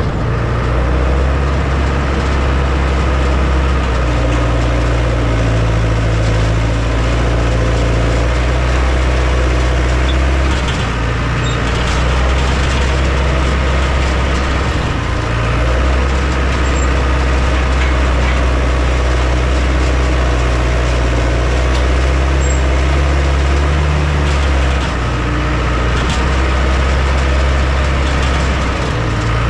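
Heavy diesel engine of construction machinery running loud and steady, its low note shifting several times.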